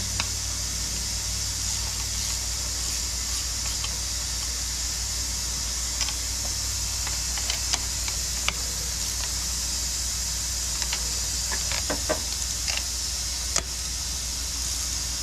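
Steady hiss with a low hum underneath, and scattered light clicks and taps, several of them close together about twelve seconds in.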